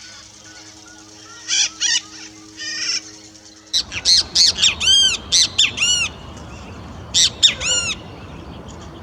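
Wild bird calls: two short, harsh calls early on, then, after a cut about four seconds in, a loud, quick series of sharp, arching notes over background hiss.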